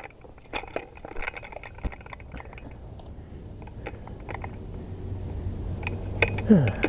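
Scattered light clicks and clinks, with a low steady hum building in the second half. Near the end comes a short, loud vocal sound that falls in pitch.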